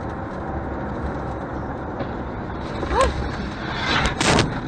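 Steady road and engine noise of a car being driven, with a short squeal that rises then falls about three seconds in and loud sudden bangs a second later.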